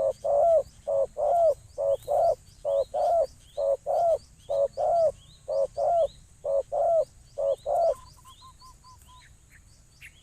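A dove cooing over and over in groups of short and longer notes, with small birds chirping faintly behind it. The cooing stops about eight seconds in, and a short run of quick, even notes follows.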